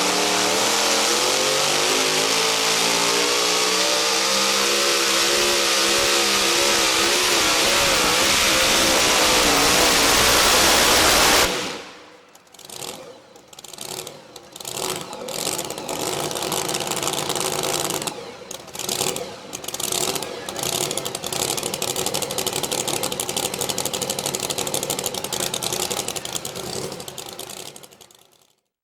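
Modified two-wheel-drive pulling truck's engine at full throttle under load, its pitch wavering, cut off abruptly about eleven seconds in. The engine then comes back in uneven surges, runs steadier, and fades out near the end.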